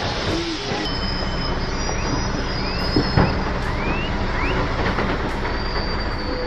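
Heavy vehicle engine running steadily, with a few short rising chirps above it.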